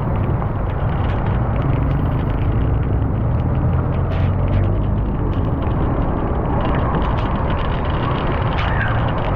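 Steady low rumble of a vehicle on the move, with frequent short sharp ticks and clicks scattered over it.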